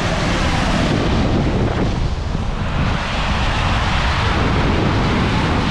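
Heavy hail coming down in a dense, steady roar of impacts, with a strong low rumble underneath.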